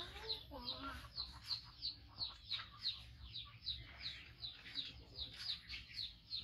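A bird chirping over and over in short, falling chirps, about three a second.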